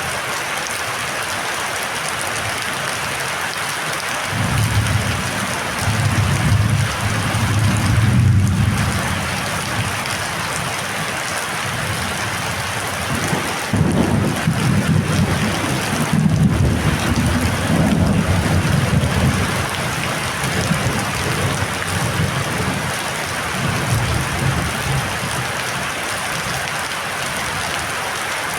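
Heavy rain pouring steadily, with low rumbling swells several times, the strongest about a quarter and about half of the way through.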